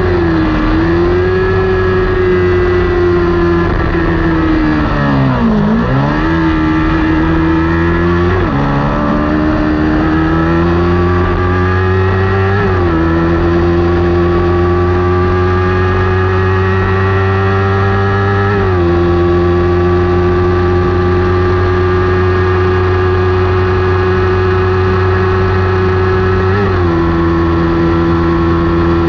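Kawasaki Ninja 400 parallel-twin racing engine running hard at high revs. The pitch dips sharply and climbs back about six seconds in, as the bike slows and accelerates again. It then rises slowly, with sudden small steps at gear changes, several times.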